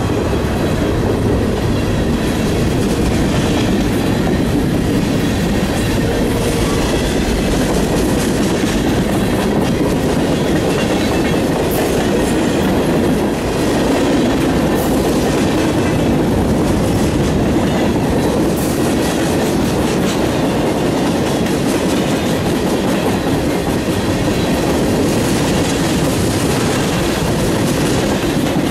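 Cars of a CSX freight train rolling past at close range: a steady, loud run of steel wheels on rail with clickety-clack over the joints.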